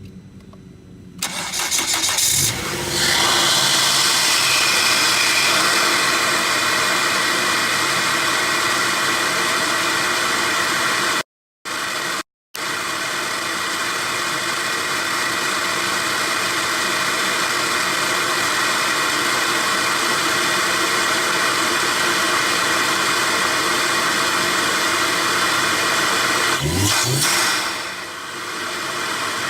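Volvo S60 2.5T's turbocharged inline five-cylinder, breathing through a Snabb cold air intake, running hard under load with a loud steady rush of intake and turbo noise. The noise starts a little over a second in, cuts out twice briefly near the middle, and drops away near the end as the engine note falls.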